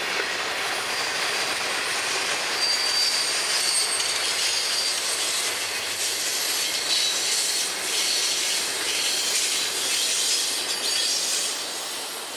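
Freight cars of a Florida East Coast train, gondolas and then double-stack intermodal well cars, rolling past with a steady rattle of steel wheels on rail. A thin high wheel squeal comes in a few seconds in. The sound drops off near the end as the last car passes.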